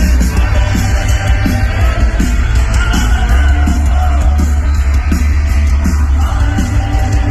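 Loud live rock music from a festival stage: a singer over a band with a heavy, boomy bass and a steady drum beat.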